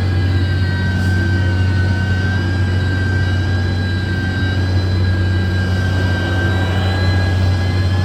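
Heavy earthmoving machine engine running steadily under load, a deep low hum with a thin high whine on top.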